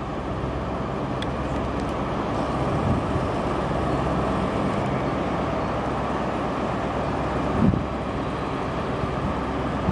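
A passenger train creeping slowly into the platform, a steady rumble mixed with wind noise on the microphone, and a single short bump near the end.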